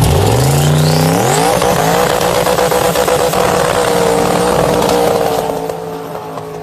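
Twin-turbo 7.3-litre LS V8 of a modified Opel Kadett revving up over about a second and a half, then held at high revs for several seconds before easing off near the end.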